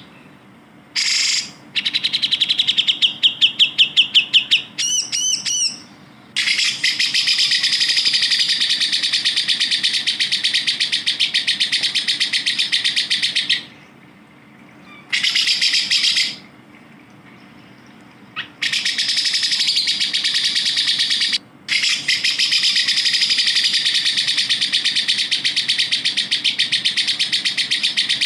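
Grey-cheeked bulbul (cucak jenggot) singing in long bouts of rapid, high chattering trills, each several seconds long with short pauses between. Near the start there is a run of separate clear notes, followed by a few looping notes.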